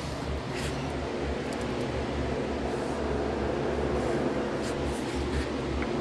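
Steady low mechanical hum with hiss, with a couple of faint clicks.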